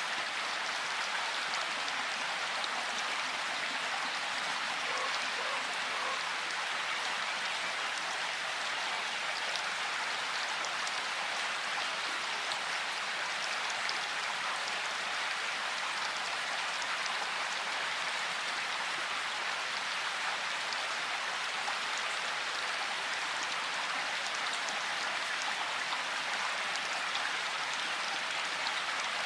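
Steady rain falling, an even hiss with the patter of individual raindrops.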